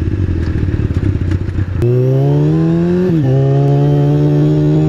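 2003 Kawasaki ZX-6R's 636 cc inline-four pulling away. A rough low rumble lasts almost two seconds, then the engine note rises, drops briefly at an upshift about three seconds in, and climbs again.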